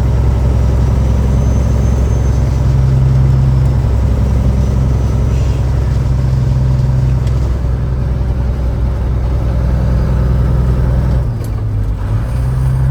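Peterbilt 379 semi truck's diesel engine droning steadily at highway cruise, with road noise under it. About eleven seconds in, the engine note dips briefly and changes pitch, then picks up again.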